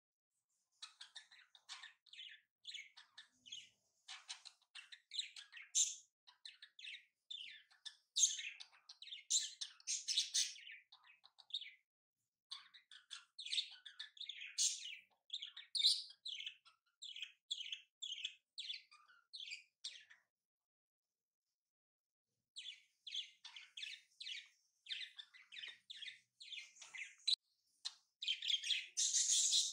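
Small birds chirping in quick runs of short, high calls, broken by a pause of about two seconds past the middle.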